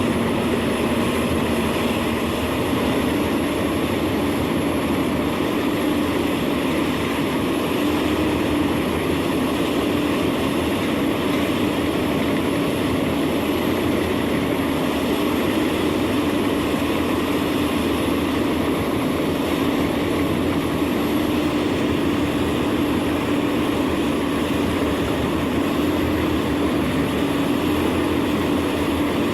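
Large wood chipper running steadily, its engine holding a constant drone at an even level.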